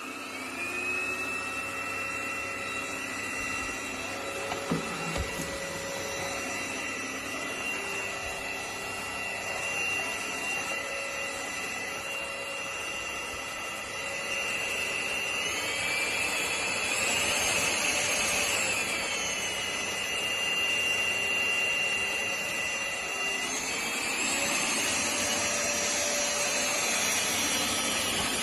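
Trucozie cordless stick vacuum cleaner switched on and running, its motor spinning up into a steady high whine over the rush of air. The whine steps up in pitch about halfway through, drops back, and rises again near the end.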